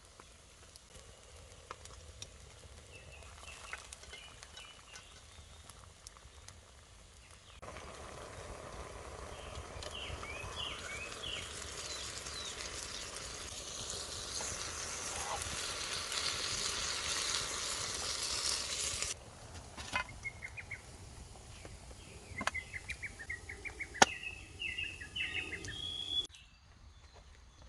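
Food sizzling in oil over a campfire: a steady hiss that starts about eight seconds in and cuts off suddenly about eleven seconds later. Small birds chirp before and after it, and a few sharp clicks come near the end.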